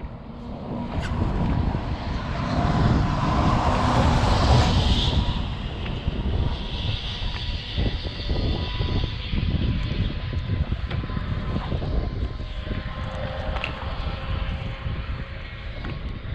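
A distant engine drone that swells to a peak about four seconds in and then settles into a steadier hum, with wind buffeting the microphone.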